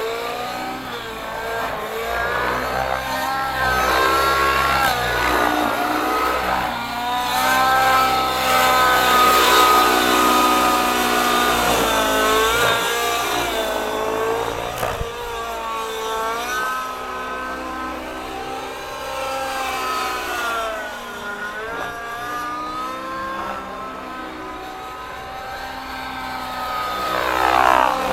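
Gaui NX7 engine-powered RC helicopter in flight, its engine and rotor pitch rising and falling continuously with the manoeuvres. Near the end it sweeps past louder, the pitch sliding down.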